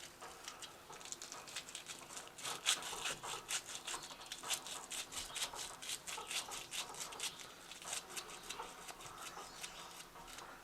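Corroded battery cable terminals being scrubbed clean: a fast run of short, scratchy strokes, heaviest in the middle.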